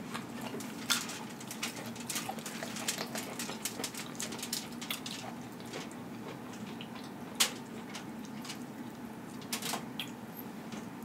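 Close-miked eating: wet chewing and lip smacks as rotisserie chicken is eaten, with the meat pulled apart by hand. Scattered sharp smacks and clicks, the loudest about a second in and twice more later, over a faint steady hum.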